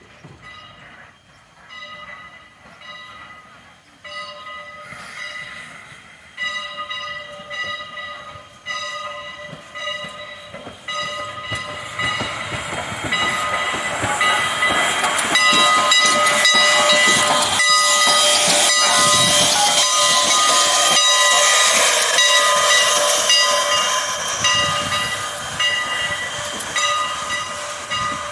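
Steel wheels of the passenger car squealing against the rails: several high tones that come and go among rail clicks, then build about halfway through into a loud, sustained squeal with a rushing hiss.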